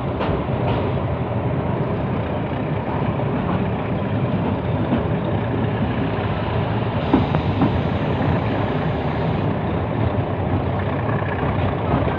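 Steady rumble and rattle of a passenger train running along the track.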